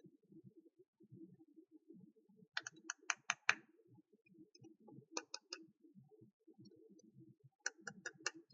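Small plastic toy pieces clicking and tapping against each other in three quick runs of light clicks, about six, then three, then five.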